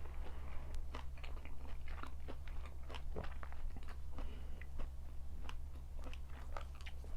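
Close-miked chewing and crunching of food in the mouth: irregular crisp crunches, several a second, over a steady low hum.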